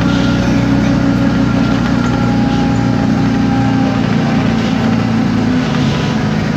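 Isobus City 1200 city bus driving, its MAN D0836 inline-six diesel running steadily with a faint drivetrain whine from the ZF Ecomat six-speed automatic gearbox and the differential. The deepest rumble eases about two-thirds of the way through.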